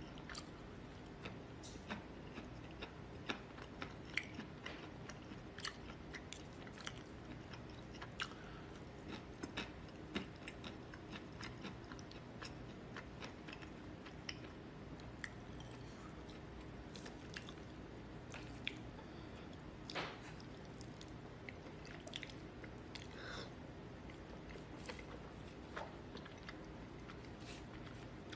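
A person eating noodles close to the microphone: quiet chewing with many small, sharp mouth clicks and taps scattered through, over a faint steady hum.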